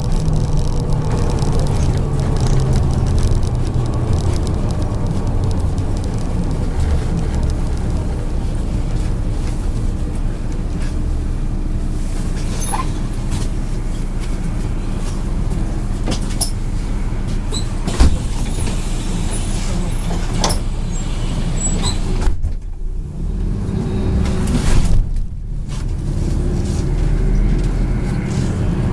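MAZ-103 bus heard from inside the cabin: the engine running with steady road noise, and scattered clicks and rattles from the body, with one louder knock about two-thirds of the way through.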